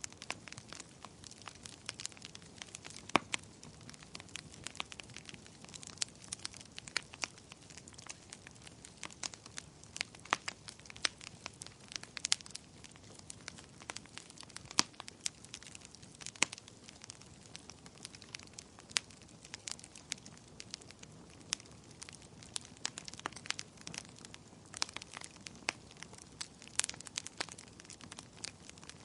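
Wood fire crackling in a fireplace: irregular sharp pops and snaps, some louder, over a low steady hiss.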